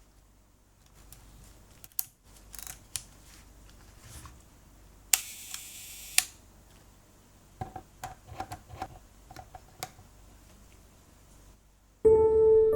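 Clicks from the Olympus Ace film camera being worked, with a shutter firing on a slow speed: a click, about a second of buzzing escapement, and a closing click. A run of quick mechanical clicks follows, then soft piano music starts near the end.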